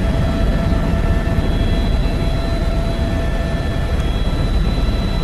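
Helicopter running: a steady heavy rumble from the engine and rotor, with a steady high whine over it.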